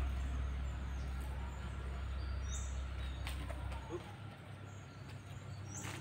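Wild birds chirping, with two short, high, rising notes, over a low rumble that fades out about four seconds in.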